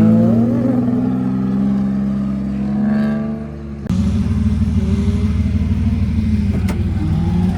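Car engine running with its pitch gliding and holding as the revs change, then cutting abruptly about four seconds in to a steadier engine note.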